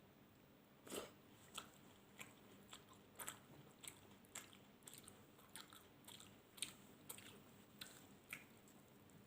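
A person chewing food close to the microphone, with a run of sharp, crisp crunches, about two a second, starting about a second in.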